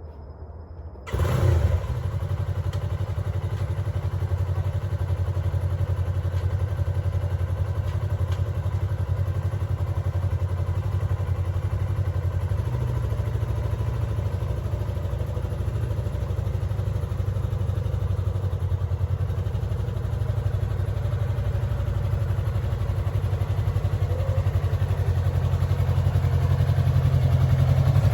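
2021 Yamaha MT-03's 321 cc parallel-twin engine starting about a second in, then idling steadily. It gets a little louder toward the end.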